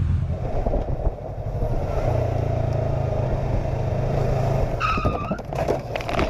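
A motor vehicle engine running steadily, with a low even hum and road or wind noise. About five seconds in there is a short high-pitched tone, then a few sharp knocks near the end.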